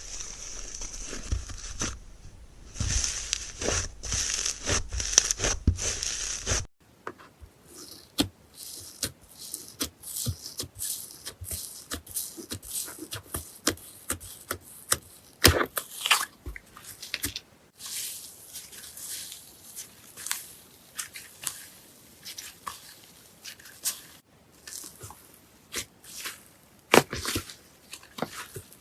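Slime being squeezed, pressed and poked by hand, making a dense run of crackles, pops and squelches. About seven seconds in it cuts to another batch, quieter between the sharp clicks.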